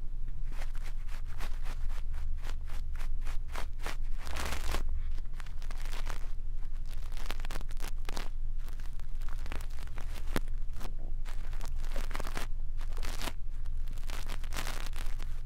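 Brush bristles sweeping and scratching over a microphone in quick, irregular strokes, the close brushing of ASMR ear cleaning, over a steady low hum.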